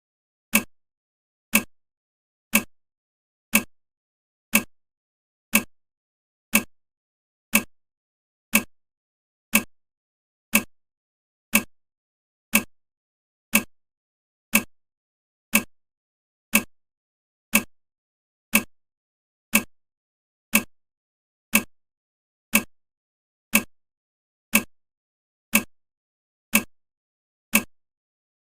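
Countdown timer's clock tick sound: a short sharp click once every second, evenly spaced, marking off the seconds.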